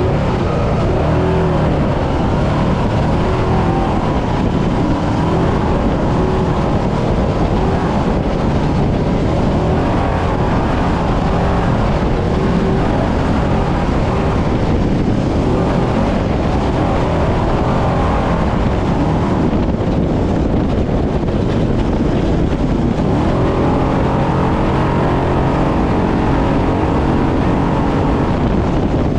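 Trophy truck's engine running hard, revs climbing and dropping repeatedly as it accelerates and backs off, over loud wind and rough-terrain noise.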